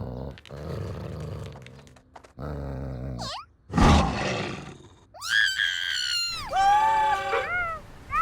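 Cartoon animal growls and roars, with a loud sudden burst about four seconds in, then high, sliding squeals and cries in the second half.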